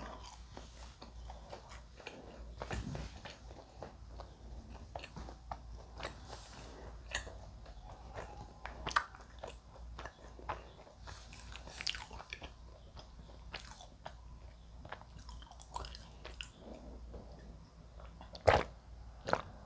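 Close-up chewing and mouth sounds of someone eating a fried snack, with small scattered clicks, then sips from a plastic water bottle; a louder click comes near the end.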